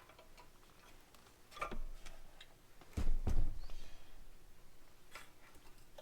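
Metal Allen wrenches clicking and clinking against each other and the pump's bolt heads as sizes are tried: a few separate sharp clicks, the loudest pair about three seconds in.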